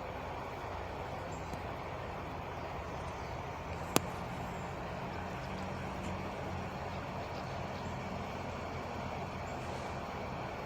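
Truck engine idling with a steady low hum. A single sharp click about four seconds in.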